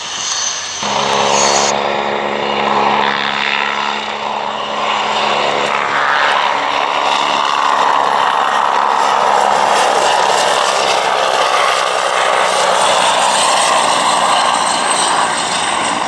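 Merlin V12 engine of a Supermarine Seafire in a flypast: a loud propeller-engine roar comes in suddenly about a second in and holds steady.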